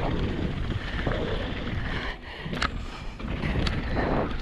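Wind rushing over a helmet-mounted action camera as a mountain bike rolls down a dirt jump trail, with the tyres on dirt and a few sharp knocks and rattles from the bike, the clearest about two and a half and three and a half seconds in.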